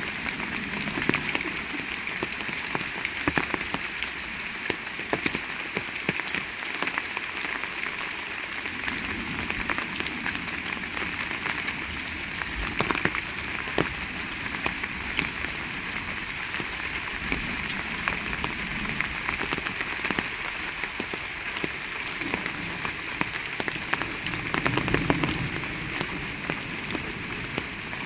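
Heavy rain falling steadily, a dense hiss of rain with many sharp individual drop impacts.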